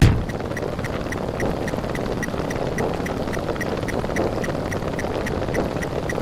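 A dense, fast-repeating jumble of overlapping cartoon and meme sound effects, with a short high blip recurring about three to four times a second and a sudden louder hit at the start.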